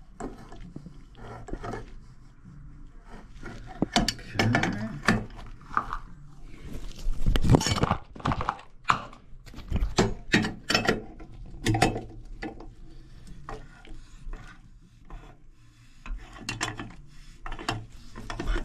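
Hand tools tightening faucet parts: irregular scraping, rubbing and clicking of metal, in short bursts with a few sharper knocks, as the parts are snugged down.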